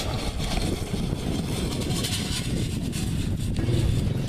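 A motor vehicle engine running among a rough rumbling noise; a steady low engine hum comes in near the end.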